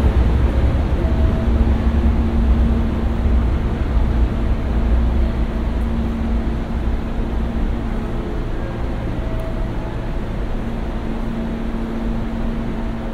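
Hankyu electric train running along the platform, a loud low rumble that slowly fades, with a steady hum that comes and goes.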